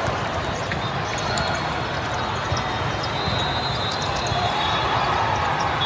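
Busy indoor gym during a volleyball match: a continuous din of voices, with volleyballs bouncing on the court and scattered small knocks.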